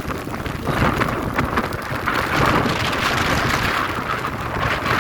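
Strong storm: a loud, steady rushing hiss of wind and driving rain, building about a second in and heaviest a couple of seconds later.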